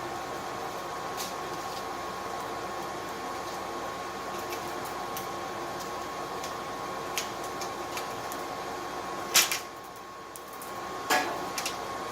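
Steady whir of a hair dryer used as a charcoal forge's blower, with a constant hum. A sharp metallic knock stands out about nine seconds in, the whir sags briefly, and another knock follows about two seconds later.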